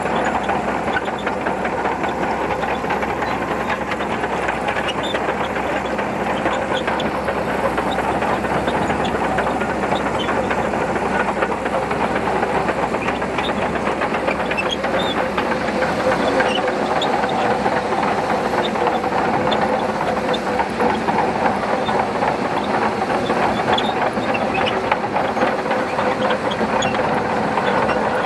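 Shantui DH17C2 bulldozer running steadily as it pushes sand, its diesel engine sounding under a dense, continuous clatter of steel tracks.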